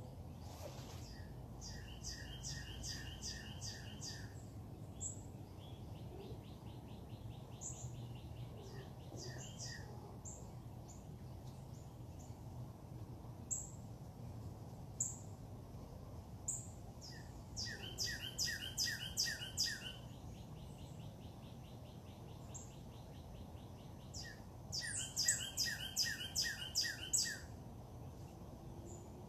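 Songbirds singing. One bird repeats a loud phrase of about six quick notes three times, and a fast, even trill and scattered single chirps fill the gaps, over a steady low hum.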